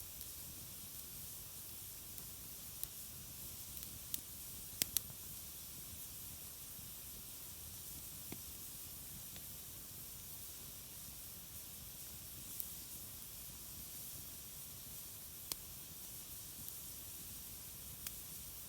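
Campfire crackling: scattered sharp pops, a close pair of louder ones about five seconds in, over a steady high hiss.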